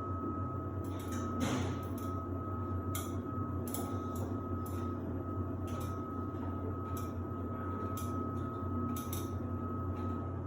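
Samsung WD70T4047CE washer-dryer running in its drying phase: a steady low motor and fan hum with a thin steady whine above it, and irregular light clicks and knocks as the laundry tumbles in the turning drum.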